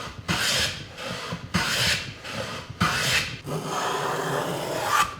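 A hand tool scraping across a Japanese cedar board in four strokes a little over a second apart, then one longer stroke that stops near the end.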